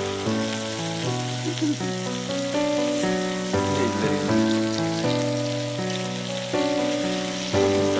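Chicken and onion frying in a pan, a steady sizzle heard under background music of held notes that change every half second to a second.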